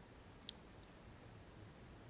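Wood fire burning quietly with sparse crackles: one sharp pop about a quarter of the way in and a fainter tick shortly after.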